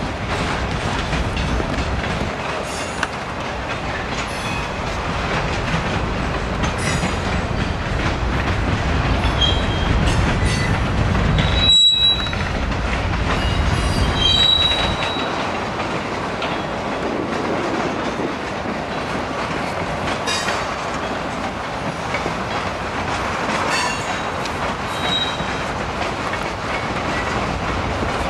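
Freight train cars rolling slowly through a rail yard, with a continuous steel-on-rail rumble and short, high-pitched wheel squeals breaking out again and again.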